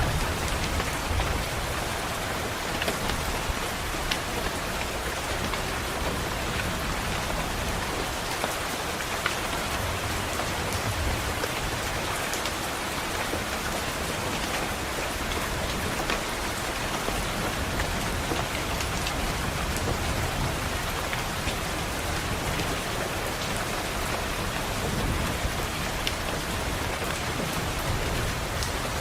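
Steady rain pattering on a window pane, with scattered sharp drops, and a low rumble swelling underneath a few times, like distant thunder.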